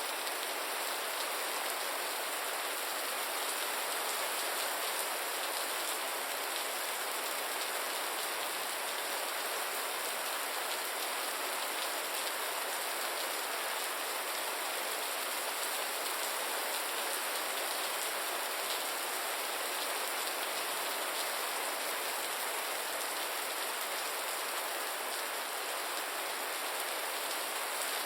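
Gentle rain falling steadily: an even hiss, heaviest in the upper range.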